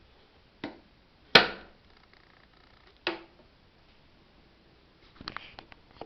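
Hard knocks and clicks of electric kettle parts being handled and taken apart: three separate sharp knocks, the second the loudest, then a quick flurry of small clicks near the end.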